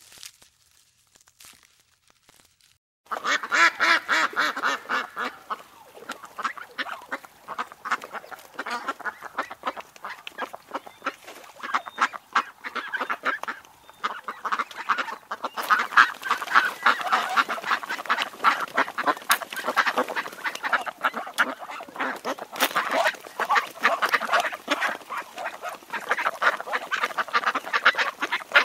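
A flock of waterfowl calling: dense, rapid, overlapping calls that start suddenly about three seconds in and keep on without a break.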